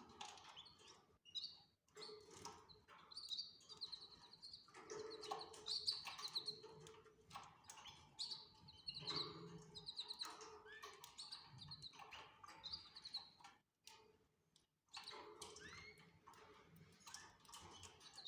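Canaries chirping faintly in short bursts of quick, high, repeated notes, with brief pauses between bursts.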